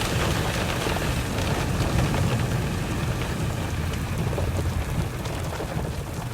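Rain pelting a vehicle's roof and windows, heard from inside the cabin, with a low steady rumble underneath during a tornadic storm.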